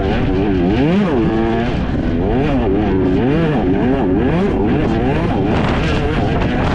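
Enduro dirt bike engine revving hard under riding load, its pitch rising and falling about every second as the throttle is worked, over a steady low rumble.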